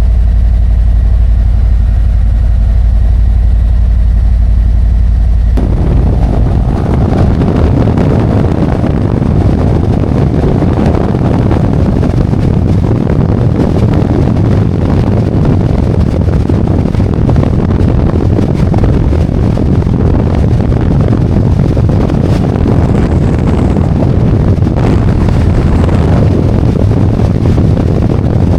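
Harley-Davidson Road Glide's V-twin engine idling with a steady low rumble. About five and a half seconds in, the sound changes suddenly to the bike under way: the engine running under load beneath heavy wind rush on the helmet-mounted camera.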